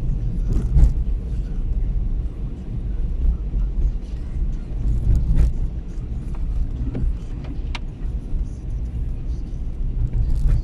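Steady low rumble of a vehicle driving on a wet city street, with a few faint clicks and ticks scattered through it.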